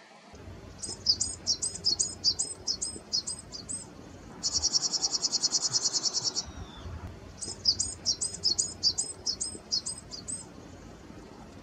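A small songbird calling: a run of quick, very high notes at about three a second, then a fast high trill for about two seconds, then another run of quick notes.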